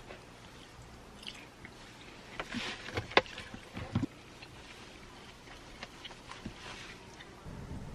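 Scattered clicks, knocks and rustling of things being handled at close range, most of them bunched together in the middle. A low steady hum comes in near the end.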